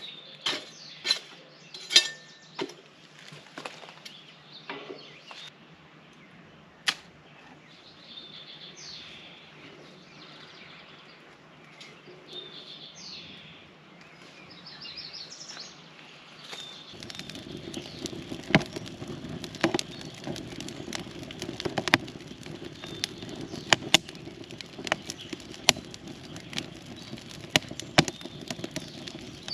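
Outdoor ambience: birds chirping, with scattered sharp clicks and taps. About halfway through, a steady low noise comes in under them.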